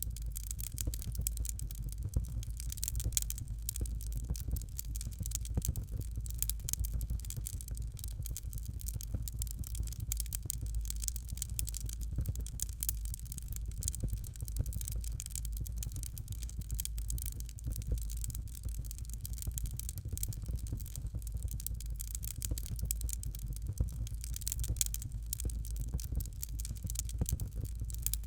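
Fireplace fire crackling: many small, irregular crackles and pops over a steady low rumble.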